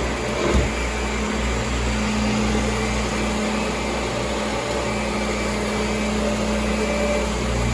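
Kirby G4 upright vacuum cleaner running steadily, a constant motor hum over airflow noise, with one brief knock about half a second in.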